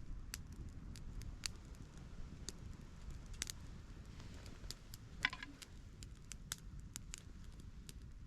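Small-twig campfire crackling, with irregular sharp pops and one louder snap about five seconds in, over a low steady rumble.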